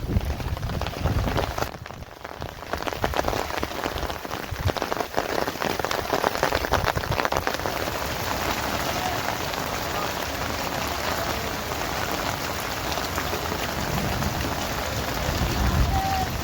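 Steady rain falling and pattering on surfaces, with a brief lull about two seconds in.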